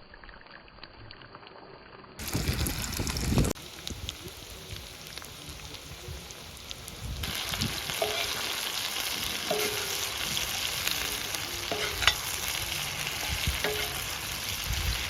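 Food frying and sizzling in a pan while it is stirred, with the spatula clinking and knocking against the pan now and then; the sizzle grows louder about seven seconds in. A brief loud low rush comes about two seconds in.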